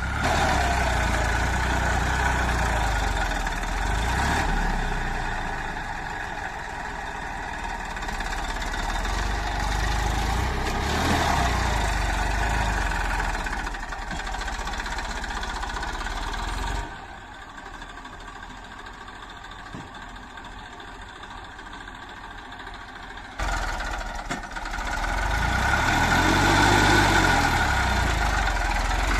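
JCB 3DX backhoe loader's diesel engine running, rising and falling in pitch several times as it is worked under hydraulic load. A quieter stretch starts and stops abruptly in the middle.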